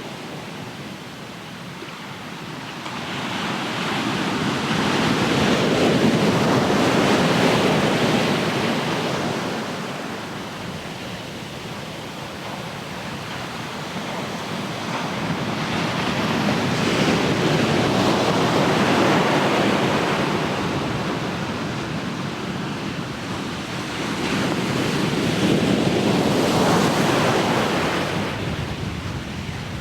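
Ocean surf: waves rolling in and washing back, the sound swelling and ebbing three times.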